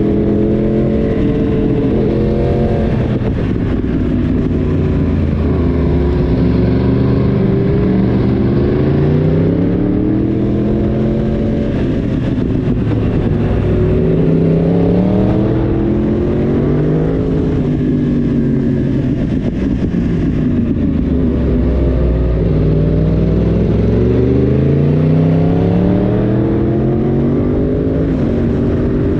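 Yamaha YZF-R1 crossplane 998 cc inline-four running under way, its revs climbing and dropping again and again through the gears and bends. There are about five rises in pitch, each followed by a fall as the throttle closes.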